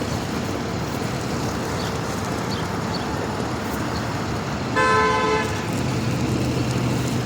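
City traffic noise, with a car horn sounding once for about half a second around five seconds in; a vehicle engine hum comes up near the end.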